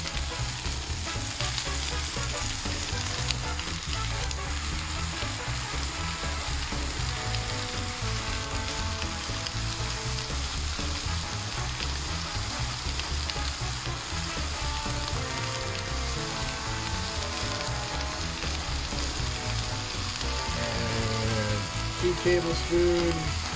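Asparagus, shallots, green onions and chopped garlic sizzling steadily in olive oil in a skillet.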